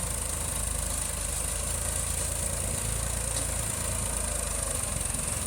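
Tractor diesel engine idling steadily, a low even rumble.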